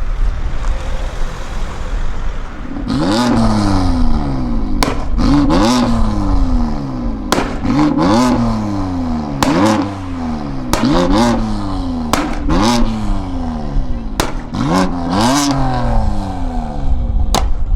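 A vehicle engine revved in quick blips, about a dozen of them at roughly one a second, starting about three seconds in. Each blip rises sharply in pitch and falls away, with sharp pops in between.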